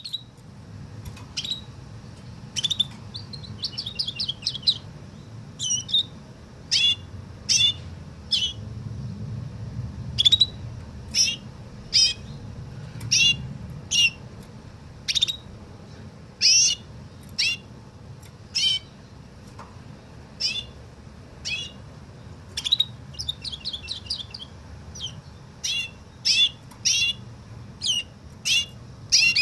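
Domestic canary singing a learned woodlark-style song: short separate high notes about once a second, many falling in pitch, with a few quick trilled phrases, over a low steady hum.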